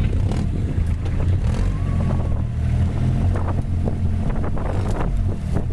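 Boat engine running steadily at speed, a loud low drone, with wind buffeting the microphone.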